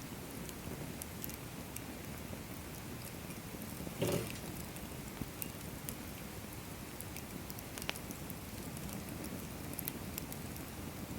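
Firewood burning in a fire pit stand: a steady hiss with scattered small crackles, a louder pop about four seconds in and a sharp snap near eight seconds.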